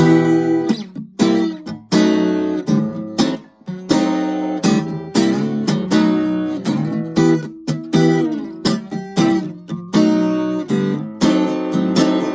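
Kramer Ferrington KFS-2 thin-body acoustic-electric guitar strumming chords, a new strum about once a second, each left to ring.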